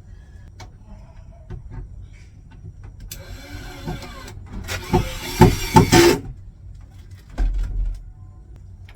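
Power drill running in two short bursts, the second louder, as it drives screws into the mews framework to fasten a metal brace. A low thud follows near the end.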